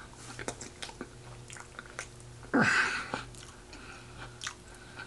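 A person chewing food close to the microphone, with small wet mouth clicks, and one brief louder sound about two and a half seconds in.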